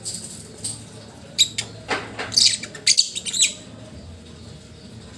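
Lovebird chirping and squeaking in its sleep as it dreams: a quick run of short, high chirps that stops about three and a half seconds in.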